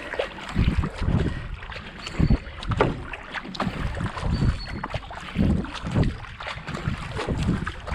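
Racing kayak being paddled at a steady cadence: a double-bladed paddle catches and splashes in the water a little more than once a second, with water washing along the hull and wind on the microphone.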